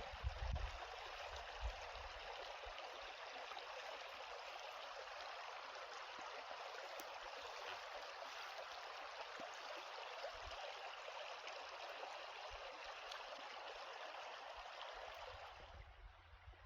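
Steady rushing of a flowing stream, which drops away sharply near the end.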